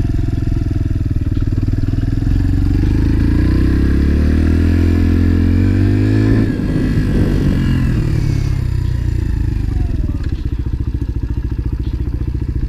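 Motorcycle engine pulling up through the revs for a few seconds, rising in pitch, then dropping sharply about halfway through as the throttle is rolled off or a gear is changed, and settling to a lower, evenly pulsing run near the end.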